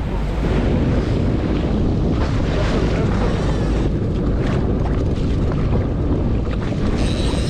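Wind buffeting the microphone over the steady wash of water around a small fishing boat.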